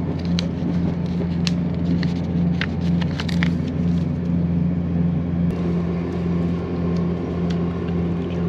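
Interior noise of a moving ScotRail passenger train: a steady low rumble and hum. A scatter of light clicks and rustles comes in the first few seconds.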